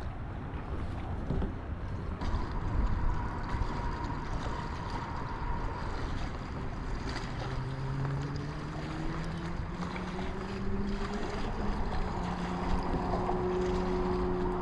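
Strong wind buffeting the microphone, a steady low rumble with gusts. In the second half a faint droning tone comes in and slowly rises in pitch.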